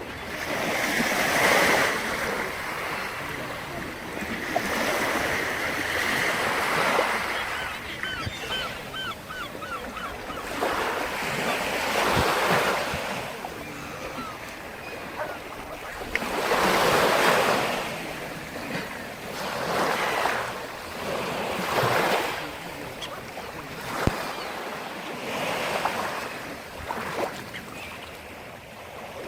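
Sea surf: waves breaking and washing up the shore one after another, each surge swelling and fading over a few seconds.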